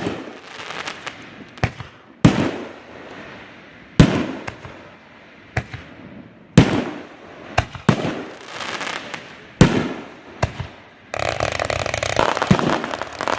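Fireworks shells bursting with a sharp bang every one to two seconds, each bang trailing off in a rolling echo. About eleven seconds in, a dense continuous crackling takes over, as of many small crackle stars going off at once.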